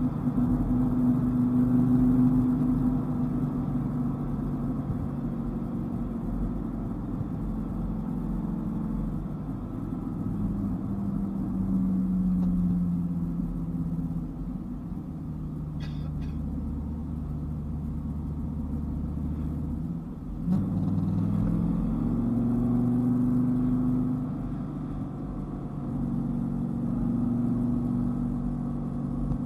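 Dodge Viper's V10 engine running under varying throttle, its pitch falling and rising as the car is driven, with a low road rumble. About twenty seconds in there is a brief break, after which the engine note climbs again.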